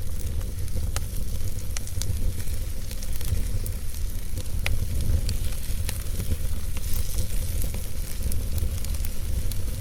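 Log fire burning in a fireplace: a steady low rumble of the flames with a high sizzling hiss and frequent sharp, irregular crackles and pops from the burning wood.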